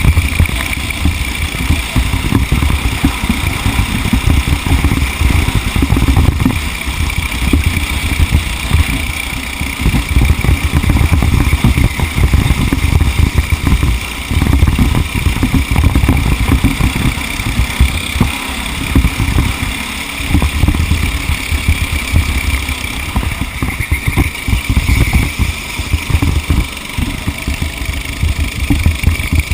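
A vehicle's engine running on the move, with a heavy low rumble that rises and falls.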